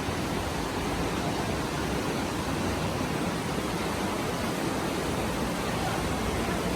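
Steady rushing noise, even throughout, with no distinct events or tones.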